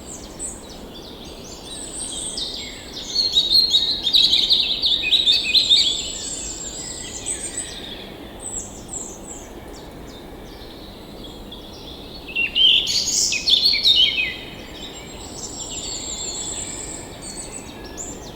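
Songbirds singing, with two loud, rapid twittering phrases, one about three seconds in and one about twelve seconds in, over thin high-pitched notes and a faint steady background hiss.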